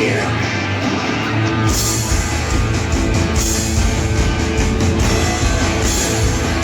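Loud rock music with guitar and drums; the drums and cymbals come in fully about two seconds in.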